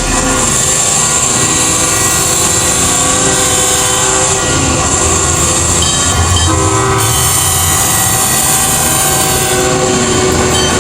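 Train sound effects from a toy-train TV commercial's soundtrack: a train running with its horn sounding, loud and steady.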